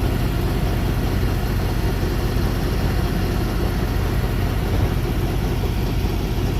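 Semi truck's diesel engine running steadily, with a loud even rush of noise over it.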